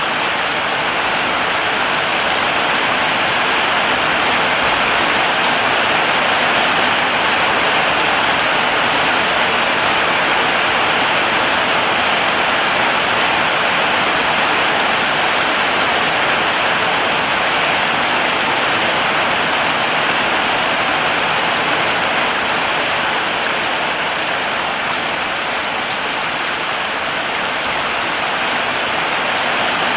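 Heavy rain falling steadily, a dense even hiss of drops with no single drop or thunder standing out.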